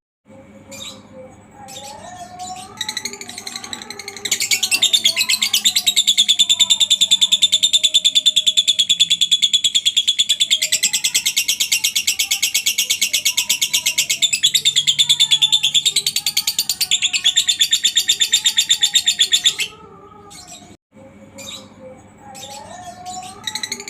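Lovebird giving one long, very rapid, high-pitched chattering trill (the 'ngekek' call) that starts about four seconds in and runs for some fifteen seconds, with quieter scattered chirps before and after it.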